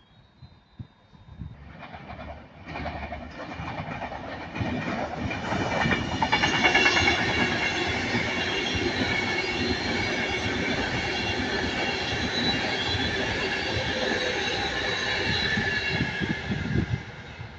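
Avanti West Coast express train running past close by, with wheels clattering over rail joints and a high, steady squeal from the wheels. It builds from about two seconds in, holds loud, and drops away near the end.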